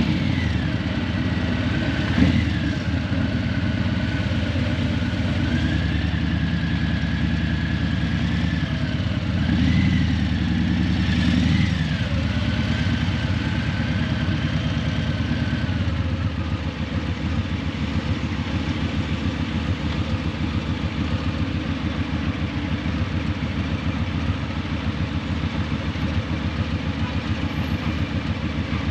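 Harley-Davidson Breakout's Milwaukee-Eight 117 V-twin, breathing through Vance & Hines Eliminator 300 slip-on mufflers, running on the move. Engine speed rises and falls a few times in the first half, with a brief knock about two seconds in, then settles into a steadier, slightly quieter note from about halfway.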